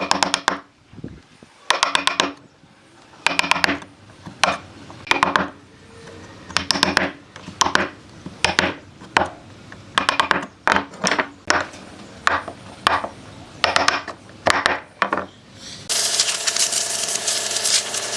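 Woodworking tool work: a run of short bursts of rapid clicking and scraping, about one a second. Near the end a power tool starts running steadily.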